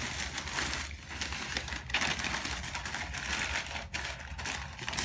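Packing material rustling and crinkling with many small irregular clicks, as potted orchids are unwrapped and handled.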